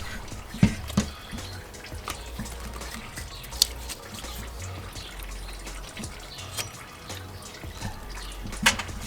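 Scattered sharp clinks and taps of a socket wrench working the serpentine belt tensioner on a Scion FR-S's FA20 engine, over a faint steady hum.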